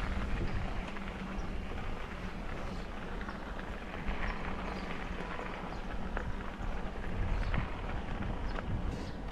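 Bicycle being ridden: tyres rolling over a rough path with a steady low rumble and scattered small clicks and rattles.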